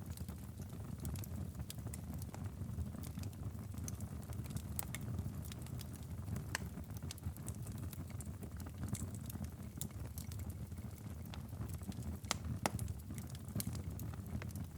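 Wood fire in a fireplace crackling: a steady low rumble with many sharp pops and snaps at irregular intervals.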